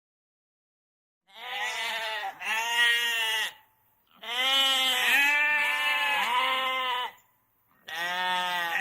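A farm animal bleating: a series of long, wavering calls that begin about a second in, with short pauses between them.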